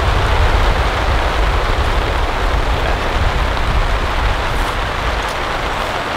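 Steady rain falling on a camping tarp: a dense, even hiss with a strong low rumble.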